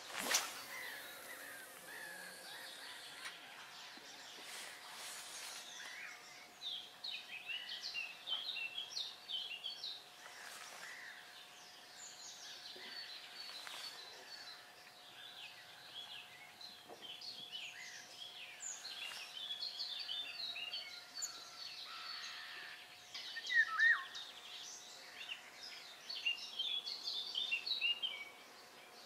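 Wild songbirds chirping and singing continuously over a steady outdoor background, with a sharp click right at the start and one louder falling call near the end.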